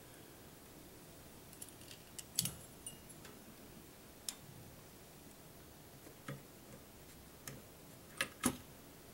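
Scattered light clicks and taps of plastic and metal computer parts being handled and positioned, about eight in all at uneven intervals, with the loudest two close together near the end.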